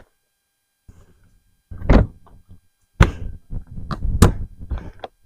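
Knocks and clunks of items being handled and set down in a storage container: one sharp knock about two seconds in, then an uneven run of clunks and knocks through the last two seconds.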